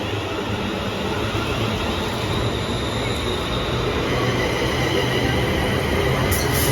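Electric passenger train moving along the platform: a steady rail rumble with a high tone that rises slightly in the second half.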